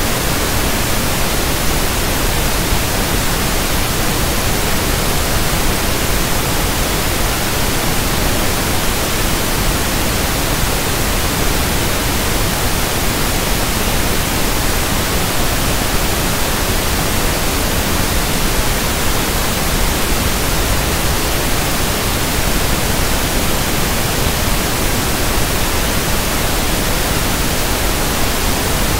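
Synthetic pink noise (1/f noise): a steady, even hiss with no tones, no rhythm and no change in level.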